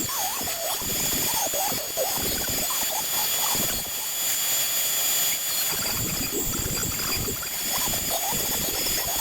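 Onefinity CNC router cutting a wood job: a steady high-pitched whine runs throughout, with warbling tones that rise and fall underneath as the machine moves through the cut.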